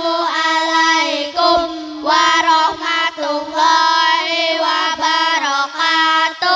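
A child singing a melody in short held phrases over a steady low held tone.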